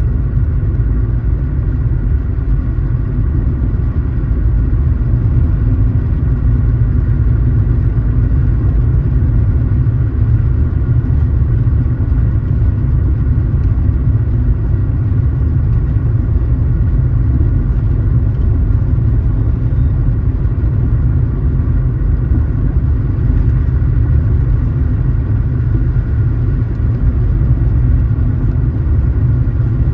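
Car driving at a steady pace: a constant low rumble of engine and road noise that holds even throughout.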